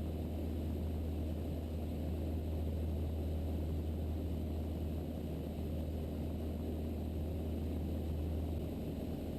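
Mooney M20E's four-cylinder Lycoming IO-360 engine and propeller droning steadily in flight, heard inside the cockpit.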